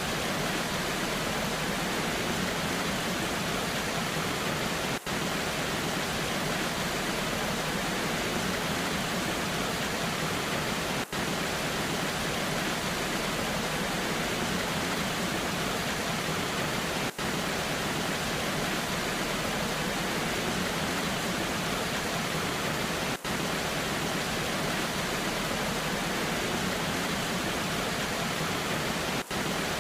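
Waterfall rushing steadily in the rain: an even, unbroken hiss of falling water, broken by a very short dip in level about every six seconds.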